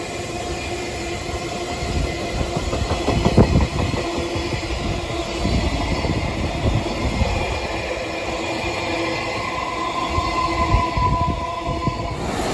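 Freight train of container flat wagons carrying tank containers running past, wheels clicking and rumbling over the rail joints. A steady higher tone comes in near the end.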